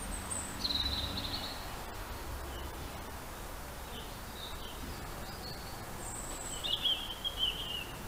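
Small songbird singing: two short phrases, each a thin high note followed by a lower twittering run, about a second in and again near the end, over a low steady outdoor rumble.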